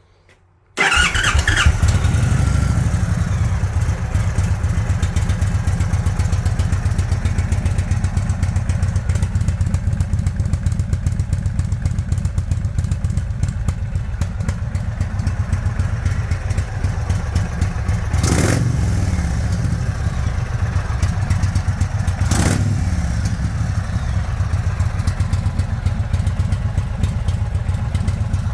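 2022 Indian Chief's air-cooled Thunderstroke 116 V-twin, running through its stock exhaust with the baffles and catalytic converters removed, starts about a second in and idles with a loud, rapid, low pulsing, with two short bursts past the middle.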